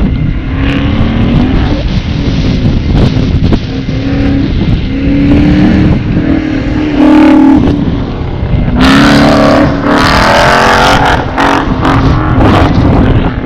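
The engine of a 2001 Ford Mustang GT (4.6 L V8) running with the car standing still, picked up by a camera mounted on the outside of the car. About nine seconds in, the car noise gets much louder for a couple of seconds.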